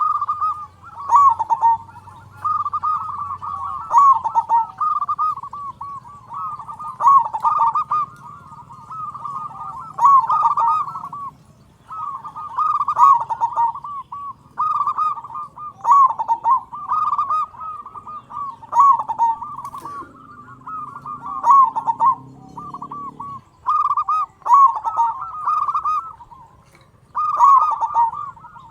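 Zebra dove (perkutut) cooing song: rapid rolling phrases of low coos, each starting with a louder note, repeated about every three seconds.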